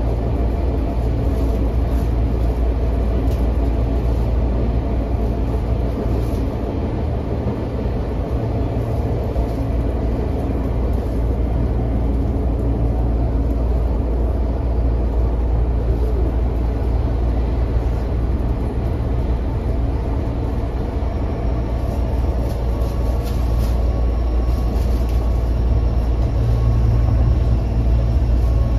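Running noise inside a Tokyo Metro 05 series electric train car: a steady, loud low rumble of wheels on rail, with a faint steady whine above it. It grows louder near the end as the train runs into a tunnel.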